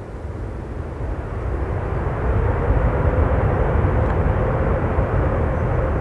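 Low engine rumble that grows louder over the first two seconds or so and then holds, with a faint steady hum over it.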